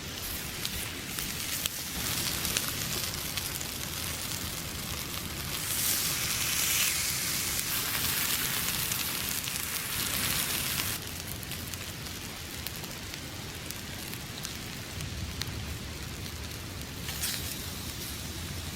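Food sizzling on a grill over a wood fire in a stone fire pit, with light crackles from the fire. The sizzle swells louder for several seconds in the middle, then eases back.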